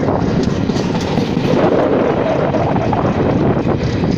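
Garib Rath Express train running along the track: a steady, loud rumble of wheels on rail.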